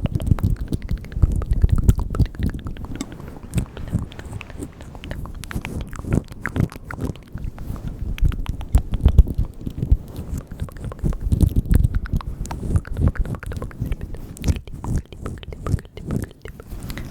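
Close-miked ASMR mouth sounds for the 'bugs' trigger: rapid wet clicks and smacks of lips and tongue, many to the second, over soft low thumps.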